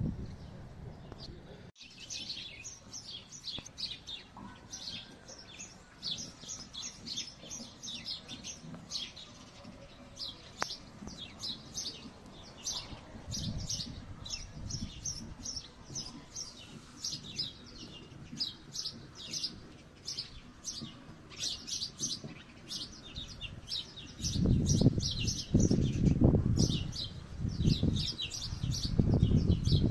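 Small birds chirping continuously, many short high chirps in quick succession. About six seconds before the end, loud bursts of low rumble come in and drown the birds out.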